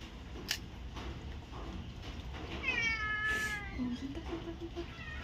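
Domestic cat meowing once: a single drawn-out meow that falls in pitch, about two and a half seconds in.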